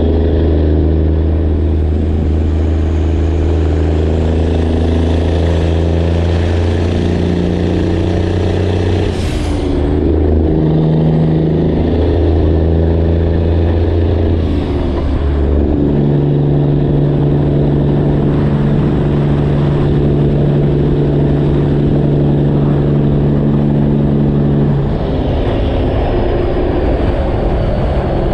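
Straight-piped Detroit Diesel Series 60 in a Freightliner Classic XL, running loud and steady under way. Its note breaks briefly and settles at a new pitch about a third of the way in and again about halfway, with short hisses at the breaks, and changes once more near the end, as the manual gearbox is shifted.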